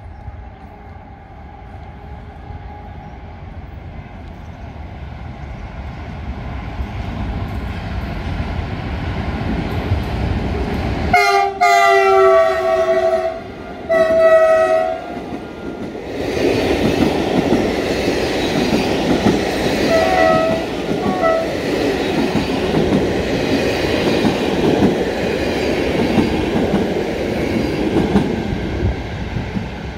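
ONCF E 1405 electric locomotive approaching with a rumble that grows louder, sounding its multi-tone horn twice, a long blast about 11 seconds in and a shorter one about 14 seconds in. The train then passes close by, its passenger coaches rumbling and clattering over the rails.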